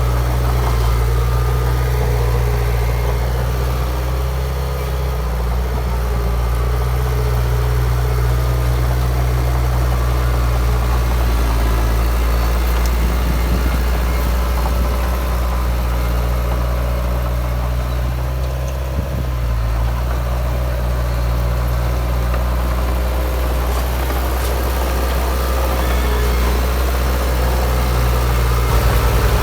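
Komatsu D53P bulldozer's diesel engine running steadily, with a deep, even engine note that shifts slightly now and then and briefly gets louder near the end.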